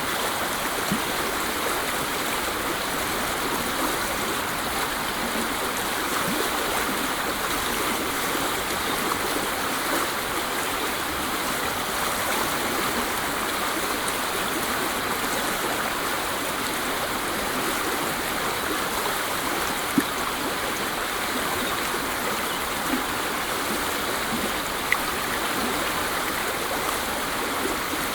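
Waterfall: water falling and rushing in a steady, even noise, with a few faint splashes or drips standing out briefly near the end.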